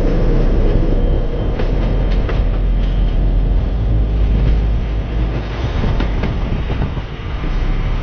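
Train running on the rails: a steady, loud rumble with scattered light clicks.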